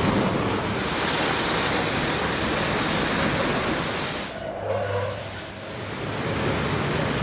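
Aquarama Stargate S9 gantry car wash at work: a steady rush of spraying water and spinning brushes. It drops away briefly about four and a half seconds in, with a short low hum, then comes back.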